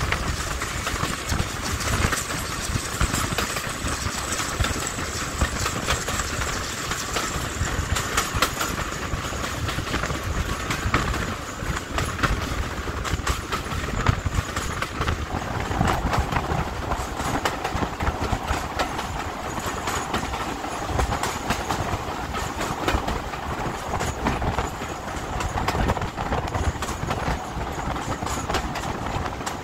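Heritage diesel-hauled train running along the track, with many sharp clicks over a continuous rumble and a steady whine that steps down in pitch about halfway through.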